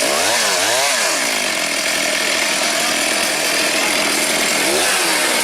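Chainsaw running and cutting wood, its engine pitch dipping and rising several times in the first second and again near the end.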